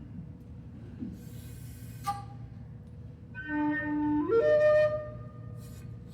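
Low whistle opening a slow air. After a breath, a short high note sounds, then a low note is held and climbs in quick steps to a note about an octave higher.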